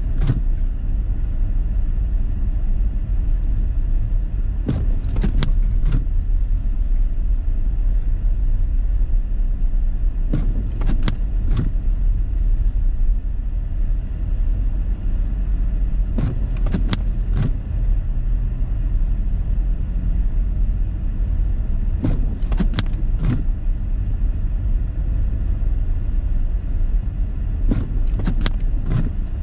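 Steady low rumble of a car driving slowly through deep snow, heard inside the cabin, with a short cluster of clicks about every six seconds.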